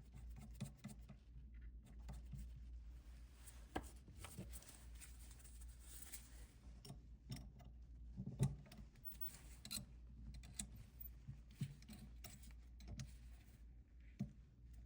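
Faint handling sounds of a small end mill being changed in a CNC spindle: scattered light clicks, taps and rubbing of small metal tools and parts, over a low steady hum.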